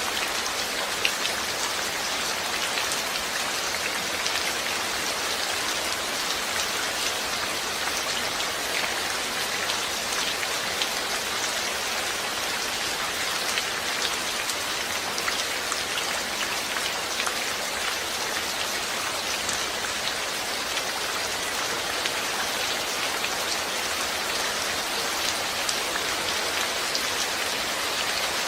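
Steady rain falling, an even hiss with many small drop impacts scattered through it.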